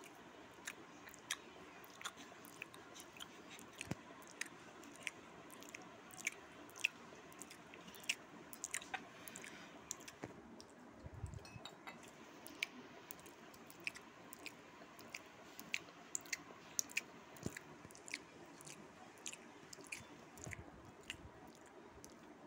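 People eating chow mein noodles with their fingers: quiet chewing with short, irregular mouth clicks and smacks, one or two a second.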